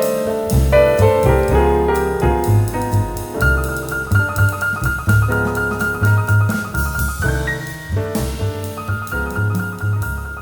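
Jazz-style instrumental music led by piano, with a moving bass line under it. A long high note is held through the middle.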